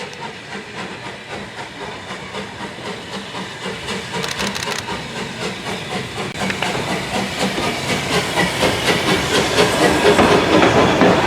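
Steam locomotive working, its rapid, even exhaust beats with steam hiss growing steadily louder.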